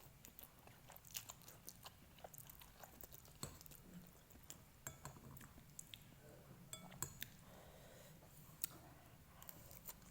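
A person eating noodles close to the microphone: quiet chewing with many irregular sharp mouth clicks.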